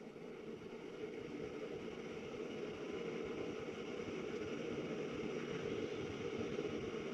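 Gas furnace draft inducer motor starting up on a call for heat: a steady whir that builds over the first couple of seconds and then runs evenly, the first stage of the ignition sequence before the igniter comes on.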